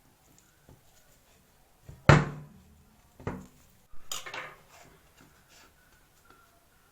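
Cutlery knocking and scraping against a dish as a slice of lemon tart is cut and lifted out: a loud clink about two seconds in, another a second later, then a short run of knocks and scrapes.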